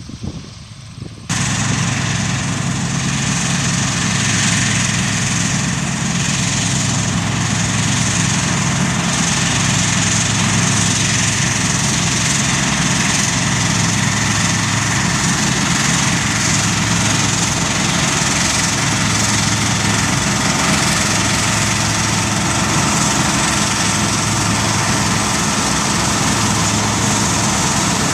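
Massey Ferguson 860 combine harvester running steadily, a constant engine drone that cuts in abruptly about a second in.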